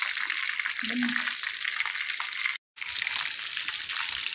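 Chicken leg pieces shallow-frying in hot oil in a pan, a steady sizzle. It cuts out for a moment a little past halfway, then resumes.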